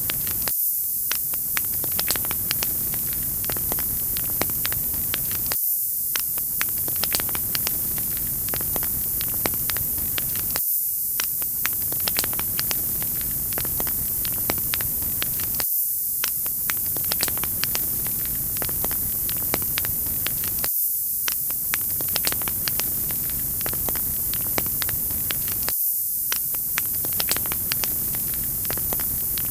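Wood fire in a fireplace crackling, with frequent small pops over a steady hiss; the same short stretch repeats about every five seconds.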